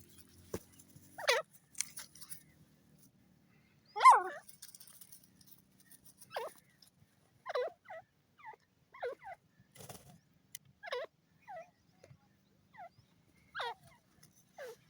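A teetar (francolin) calling: a series of short, sharp calls, each falling quickly in pitch, spaced irregularly about once a second. The loudest call is about four seconds in.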